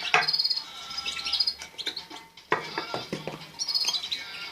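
Caged songbirds chirping over and over in short high calls, with a few sharp clinks of a spoon against a bowl or dish.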